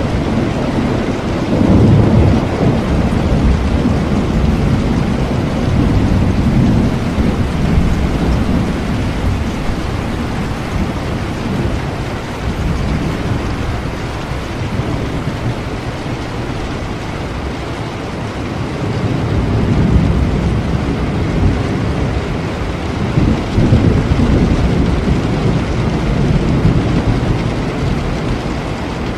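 Steady rain with low, rolling thunder rumbles that swell in the first several seconds and again from about twenty seconds in.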